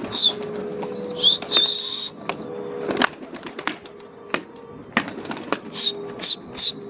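Birds chirping in short, high, falling notes, in quick runs at the start and near the end, with one longer whistled note about a second and a half in, over a few sharp clicks. Near the end a pigeon's wings flap as it takes off.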